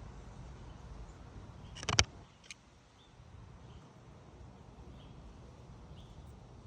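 Wind rumbling on the microphone, with a sharp knock about two seconds in and a smaller click half a second after it. Faint high chirps follow under a quieter rumble.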